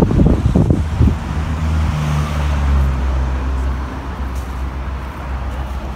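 Wind buffets the microphone for about the first second. Then a motor vehicle's engine runs as a steady low hum, with a higher tone in it that fades out after about three seconds.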